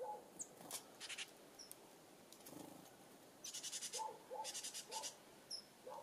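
Wild birds calling: short high chirps, a few rapid chattering trills (one about a second in, a longer pair in the second half), and several short, lower-pitched notes near the end.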